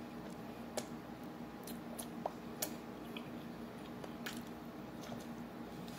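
A person chewing a mouthful of taco, with scattered faint crunches and mouth clicks over a low steady hum.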